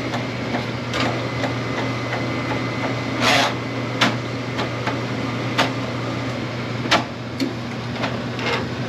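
Electric drain snake running steadily, its motor humming while the spinning cable works through a clogged drain line, with several sharp knocks and rattles from the cable.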